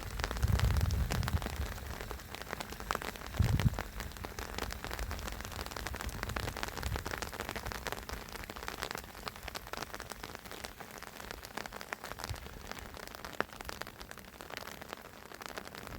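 Rain falling, a steady patter of many fine drops. A low rumble comes about a second in, and a short low thump about three and a half seconds in.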